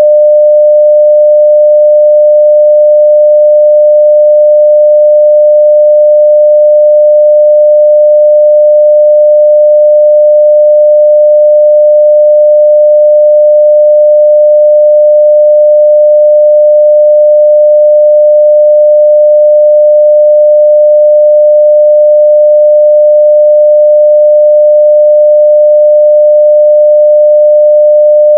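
A pure 600 Hz sine-wave test tone at full level, holding one unchanging pitch.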